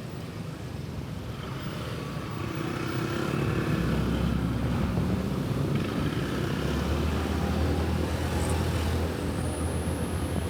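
Motor vehicle engine running steadily while travelling along a road, growing louder over the first few seconds.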